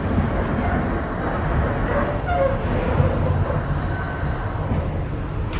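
Kawasaki R62 subway car running along the track, a steady low rumble of wheels and running gear. A faint high wheel squeal comes in about a second and a half in and fades out after about four seconds.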